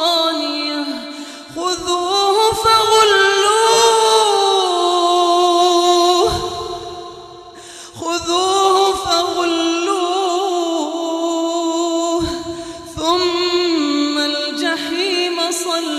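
A man chanting Quranic recitation in long, drawn-out melodic phrases with a wavering pitch, breaking off between phrases three times.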